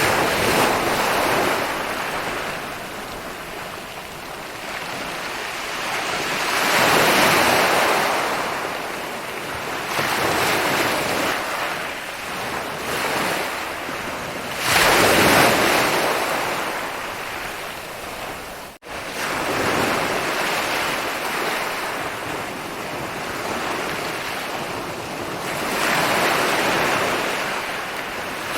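Ocean waves rolling in and breaking, each wash of surf swelling and fading every few seconds. There is a momentary drop-out about two-thirds of the way through.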